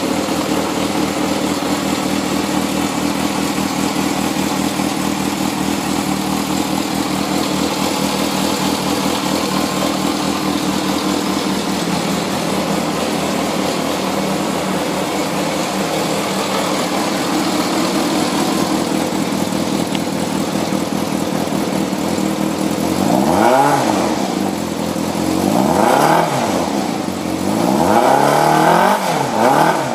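Yamaha XJR400R's air-cooled inline-four idling steadily through a Yoshimura titanium-carbon aftermarket muffler. Near the end it is revved several times, each blip rising and falling in pitch.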